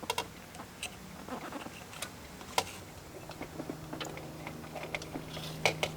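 Tail-light wires being fed up through a hole in a motorcycle's rear fender: scattered light clicks and taps of wire and plastic against metal, irregularly spaced. A faint low hum comes in about halfway.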